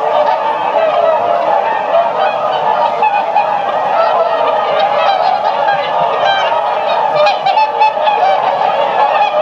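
A flock of swans honking continuously, many calls overlapping at once.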